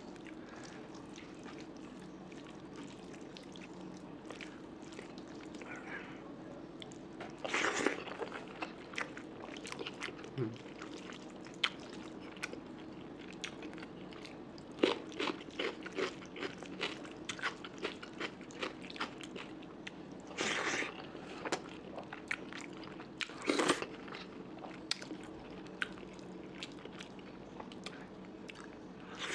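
A person eating close to the microphone: chewing and biting into curry and rice, with many small crunches and wet clicks and a few louder bursts of sound now and then.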